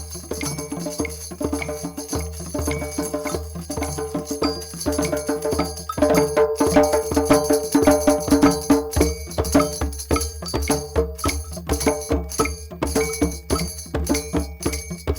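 Group drum session: several drums and other percussion played together in a fast, dense rhythm, getting louder about six seconds in.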